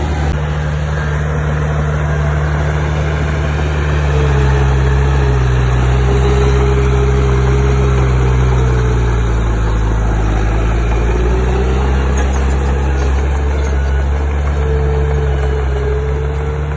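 Heavy construction machine's diesel engine running steadily. It grows louder with a shift in its note about four seconds in, eases around ten seconds, then picks up again.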